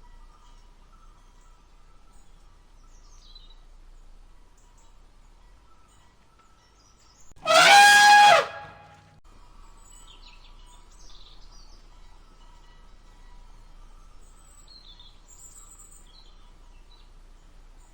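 Quiet outdoor background with scattered faint bird chirps. About seven and a half seconds in comes one loud, pitched animal call lasting about a second, falling slightly in pitch.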